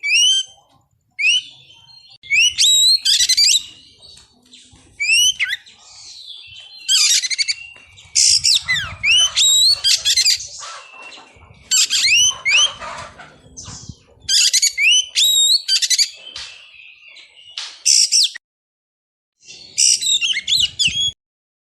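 Oriental magpie-robin singing in repeated bursts of quick whistled and chattering phrases, with short pauses between them. The sound drops out completely for about a second near 18 s, and again just before the end.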